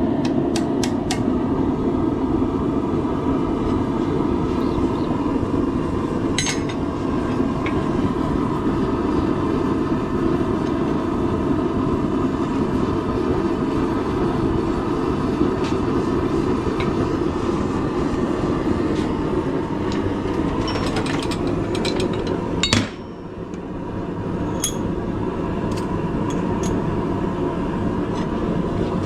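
Forge running with a steady rushing roar, with a few sharp hammer strikes on hot steel near the start and about two-thirds through. The roar drops suddenly about two-thirds through, then builds back up over a couple of seconds.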